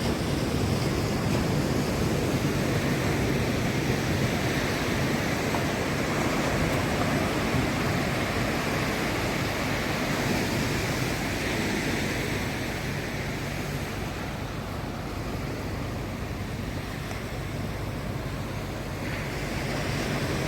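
Ocean surf breaking and washing up the beach, a steady rush that eases off about two-thirds of the way through and swells again near the end.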